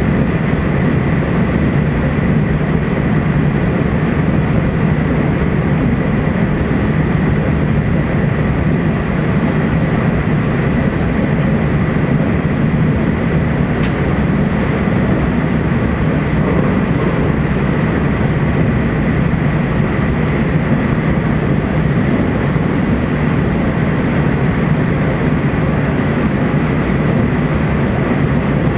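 Running noise inside a Taiwan Railways TEMU2000 Puyuma electric train at speed: a steady rumble of wheels on rail with a thin, steady high whine.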